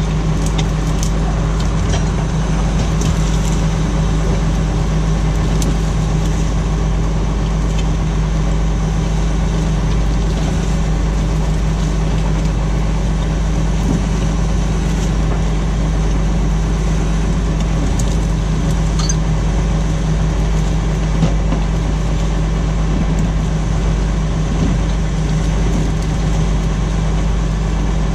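Tractor engine running steadily under load while pulling a plough, with a constant low drone and scattered light clicks and rattles.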